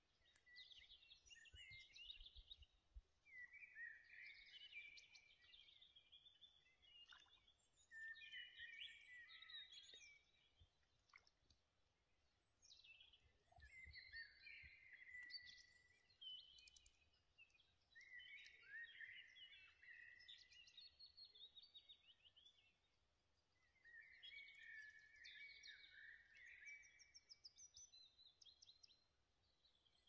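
Faint songbirds singing in repeated phrases of a second or two every few seconds, some ending in fast trills.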